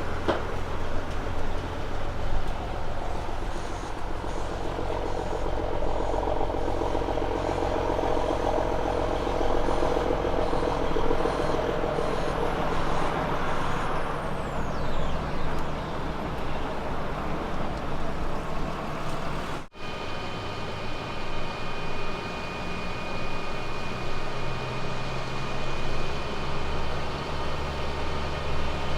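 Heavy diesel truck engines running. The engine note swells through the first part. After a sudden cut about two-thirds through, a different truck runs with a steady high tone over its engine.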